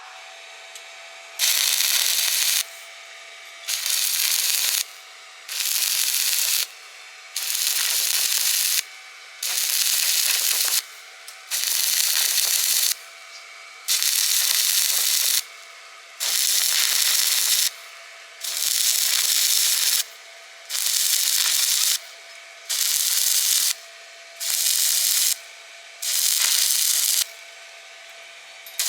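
Stick-welding arc crackling and hissing in short runs of about a second each, broken and struck again over a dozen times, roughly every two seconds.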